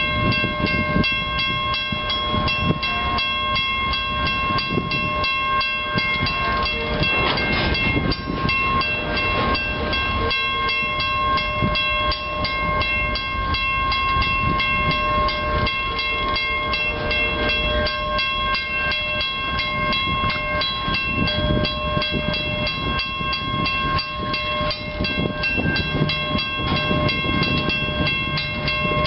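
A CN grain train's cars rolling past with a steady rumble of wheels on rail. Over it the level-crossing bell rings continuously in rapid, even strokes.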